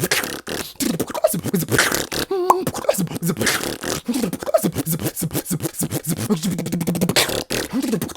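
Solo beatboxing: fast, rhythmic vocal drum hits with short pitched vocal bass sounds woven between them, and a held buzzing bass note for about a second near the end.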